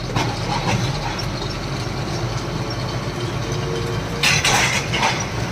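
Loaded truck's diesel engine idling steadily while stopped. A brief louder noise comes in about four seconds in.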